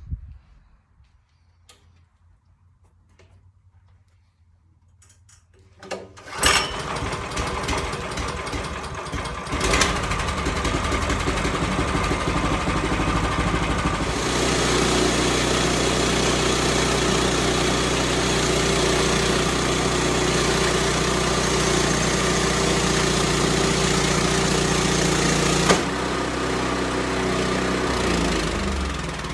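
Small gas engine on a portable band sawmill starting up about six seconds in and then running steadily. It gets louder in two steps, running hard for about twelve seconds before dropping back and winding down near the end.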